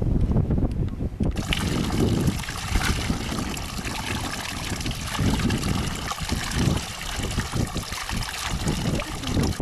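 Running water, a stream or trickle, a steady hiss that starts abruptly about a second and a half in and cuts off at the end, with wind rumbling on the microphone.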